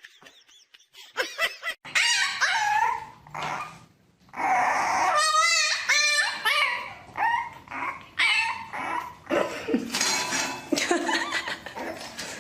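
A dog whining and yipping: a run of short high-pitched calls, with one long wavering call about halfway through.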